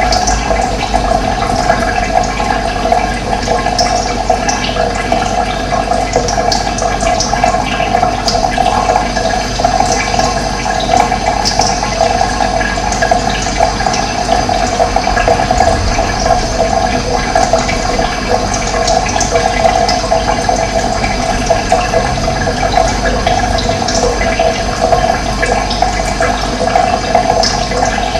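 Running water, a steady even rush, with short high bird chirps scattered over it.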